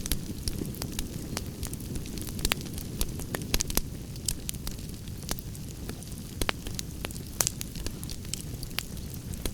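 Campfire burning with a steady low rumble and irregular crackles and pops several times a second.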